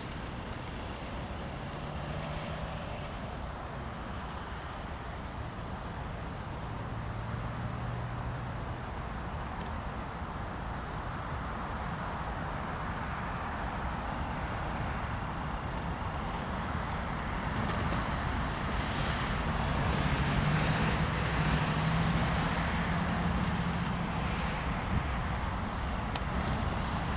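Freight train passing slowly: its diesel locomotive's low engine notes sit under a steady running noise that builds gradually and is loudest about twenty seconds in.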